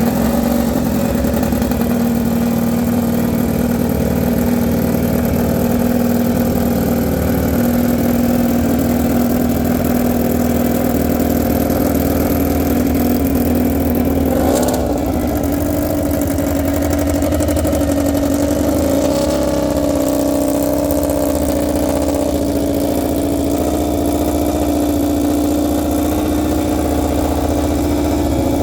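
An engine running steadily at a held speed. Its pitch steps up about halfway through and wavers slightly in the second half.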